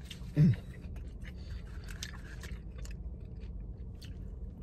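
A man eating a sandwich: a short falling "mm" about half a second in, then quiet chewing with small mouth clicks and smacks.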